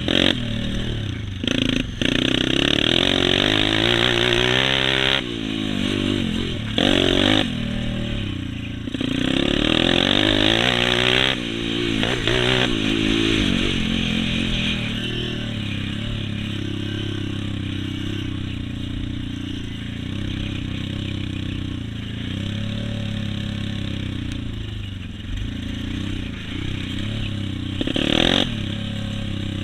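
Motocross dirt bikes running on the track, their engines revving up and falling away in pitch as they pass, with several louder passes through the stretch.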